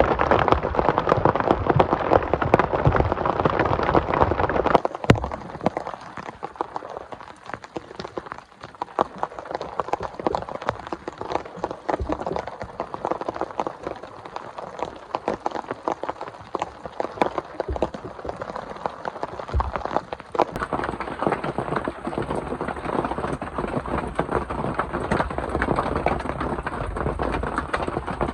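Heavy rain falling, with a dense stream of individual drop hits. It is loudest at first, drops abruptly to a softer hiss about five seconds in, and grows louder again after about twenty seconds.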